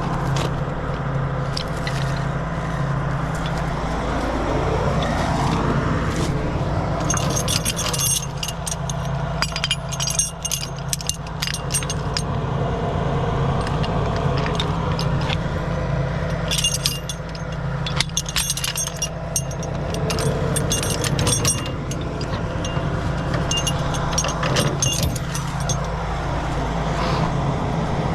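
Heavy truck's diesel engine running steadily, its pitch sweeping twice, with two bouts of metallic jangling and clinking like chains or rigging being handled.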